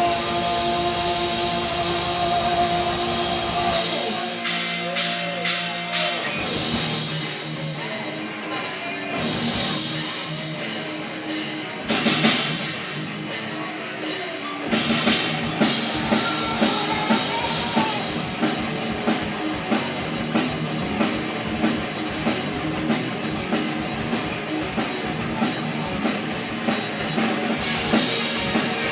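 Live rock band playing an instrumental passage with no singing: electric guitar, bass and drum kit. Held guitar notes open it, the low end drops out for a while, and from about halfway the drums drive a steady beat under the full band.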